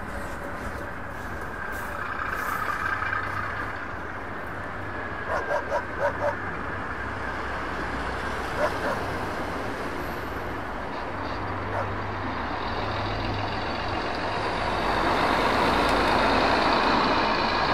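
Recorded diesel railcar engine sound of a model DMU, running steadily, with four short beeps about five seconds in. It grows louder near the end.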